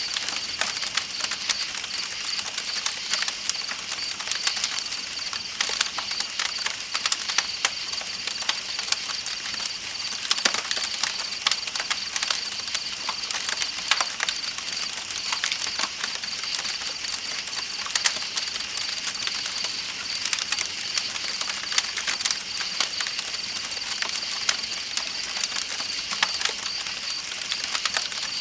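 Campfire crackling with frequent sharp pops, over a steady, high chorus of night insects chirping and the even rush of a flowing river.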